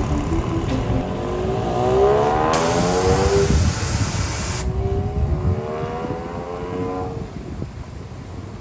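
Porsche 996 Carrera flat-six engine accelerating away, its pitch rising through one gear, dropping at a shift, then rising again before fading into the distance. A loud hiss overlays it for about two seconds in the middle.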